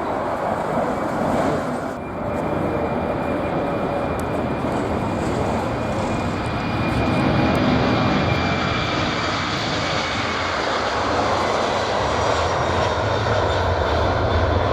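Boeing 747 jet engines running: a steady rush of engine noise with a thin high whine that slowly falls in pitch, swelling a little about halfway through.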